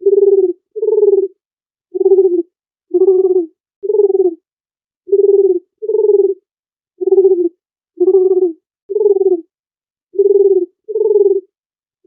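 Dove cooing: about a dozen short, low coos, each about half a second long, repeated roughly once a second and often in pairs.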